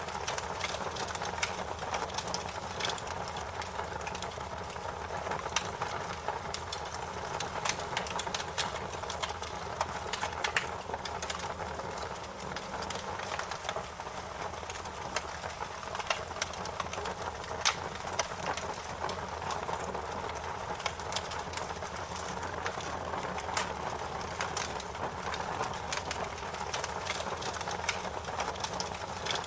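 Wood fire crackling: a steady hiss broken by frequent, irregular sharp pops and snaps.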